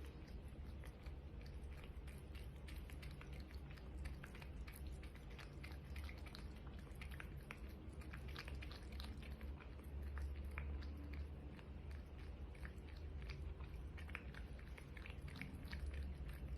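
A cat chewing food: faint, irregular crunchy clicks of biting and chewing, over a low hum.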